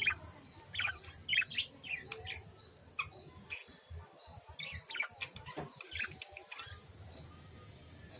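Lovebirds chirping: a string of short, sharp, high chirps at irregular intervals, the loudest near the start and about a second in.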